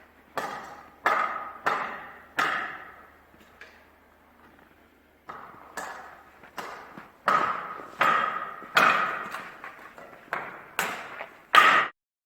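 A series of sharp strikes, each ringing briefly at the same bright pitch, irregularly spaced with a lull in the middle; the loudest comes near the end and is cut off abruptly.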